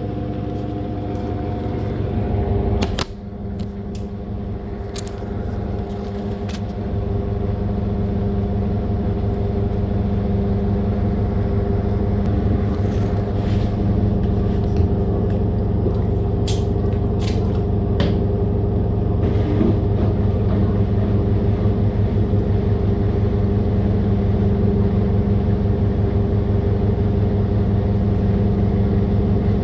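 Living & Co 5.5 kg top-loader washing machine running late in its cycle, its motor humming steadily. About three seconds in there is a click and the hum drops, then builds back up and holds steady, with a few light clicks along the way.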